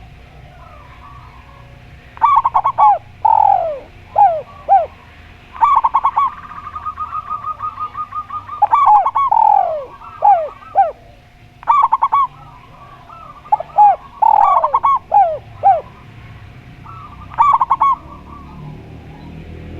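A spotted dove and a zebra dove calling over each other. There are short bursts of quick cooing notes every few seconds, several coos that slide downward, and a long rolling trill a few seconds in.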